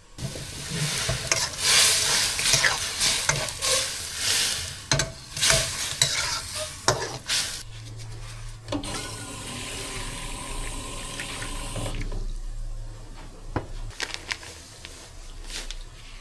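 Seasonings being prepared in a bowl: a utensil stirring and clinking, then a steady hiss with a low hum from about nine to twelve seconds, and a few sharp clicks near the end.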